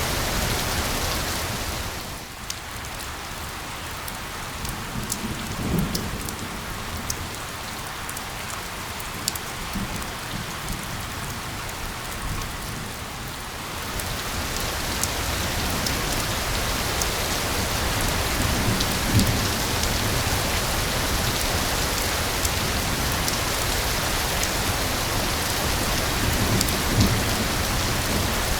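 Steady rain falling on a surface, with a few low rumbles. The rain eases and dulls a couple of seconds in and turns heavier again about halfway through.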